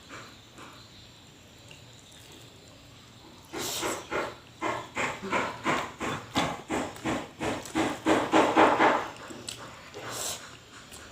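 Close-miked chewing: a steady run of chewing sounds, about two to three chews a second. It starts a few seconds in, grows louder, and stops about nine seconds in.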